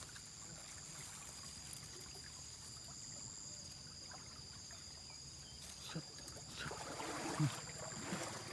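Insects calling steadily in two thin high tones over faint outdoor hiss. From about six seconds in there is rustling with a few light knocks.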